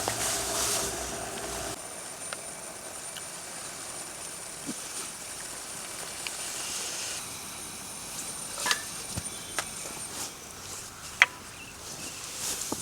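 Quiet outdoor ambience with a few scattered sharp clicks and knocks, the loudest about eleven seconds in. A steadier hum in the first two seconds cuts off suddenly.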